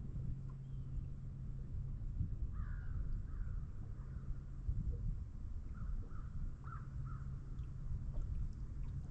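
A bird calling in two short runs of calls, about three seconds in and again between six and seven seconds in, over a steady low hum and a low rumble.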